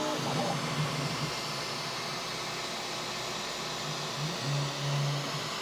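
Steady fan whir and hiss of a 3D printer running a long print, with a brief low hum about four and a half seconds in.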